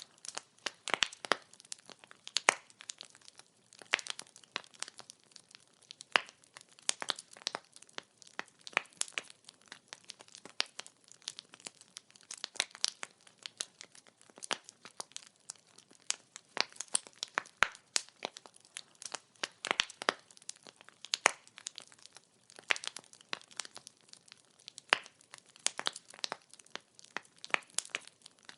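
Wood fire burning, with logs crackling in a dense, irregular stream of sharp pops and snaps over a faint hiss.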